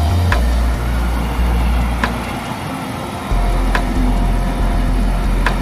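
Freight train of container and tank wagons rolling past, a steady rushing rumble, under backing music with a deep bass that shifts in pitch and a sharp click about every second and a half.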